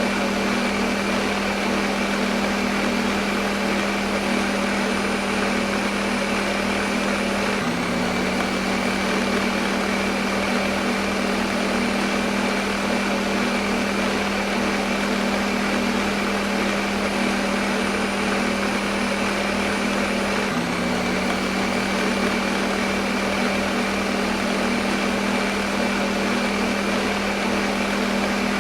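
Electric kitchen blender running continuously: a steady motor hum over dense whirring noise. Twice the motor pitch dips briefly and recovers.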